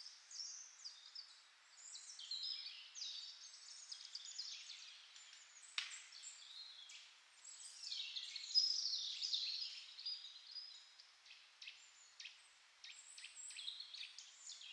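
Small birds chirping and twittering, many short calls overlapping, with a single sharp click about six seconds in.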